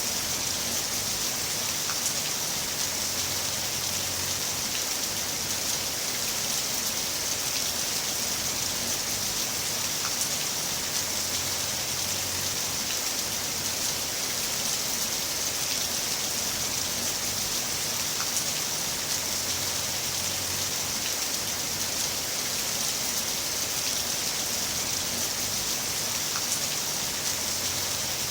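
Heavy rain falling steadily, a dense even hiss of drops with an occasional sharper drop tick standing out.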